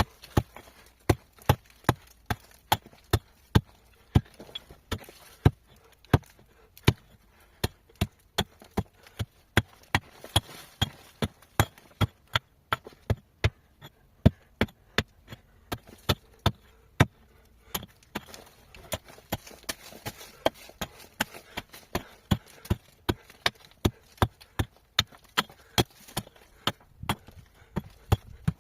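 Hand tool striking rock in a steady run of sharp blows, about two a second with brief pauses, chipping the stone away.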